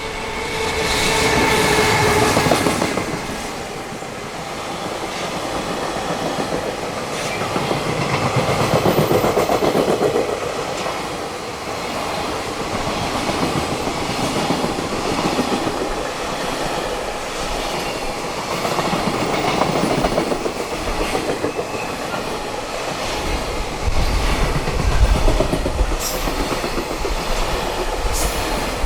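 High-speed freight train's wagons running past, wheels clattering over the rail joints. A steady whine sounds for the first couple of seconds and then fades, and a deeper rumble builds near the end.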